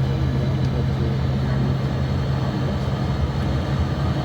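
Steady low drone of a moving vehicle heard from inside the cabin, a constant low hum with road noise over it.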